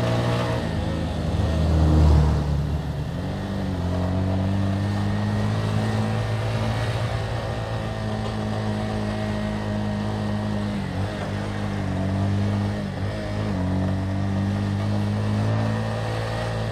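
Motorcycle engine running while riding, heard from on the bike over steady road and wind noise. Its pitch drops and swells in the first few seconds, then it holds a steady cruise with a couple of brief dips in pitch later on.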